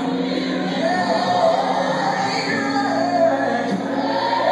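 Gospel worship music: a congregation and worship band singing and playing a sustained passage of the song between sung lines, echoing in a large hall.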